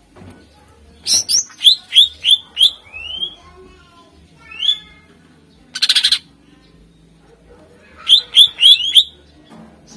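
Greater green leafbird (cucak ijo) singing: two runs of quick rising whistled notes, a few single rising notes between them, and a short harsh rattling burst about six seconds in.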